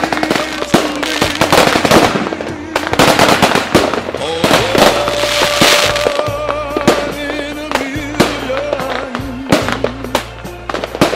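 Fireworks going off in a rapid, dense string of bangs and crackles over music with long held notes.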